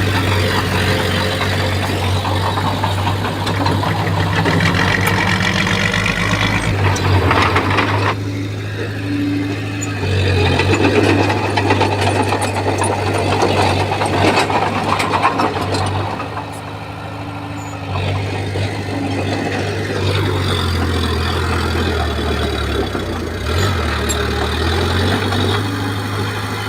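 Bulldozer's diesel engine running under varying load as it works, easing off briefly about two-thirds through and shifting in pitch several times near the end, with scattered short knocks.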